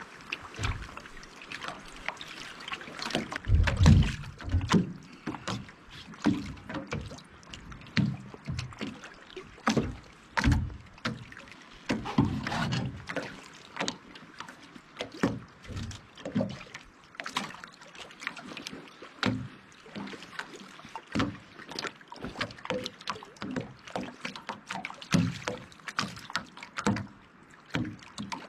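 Irregular knocks and thumps, one or two a second, some deep and heavy, over a faint steady hiss.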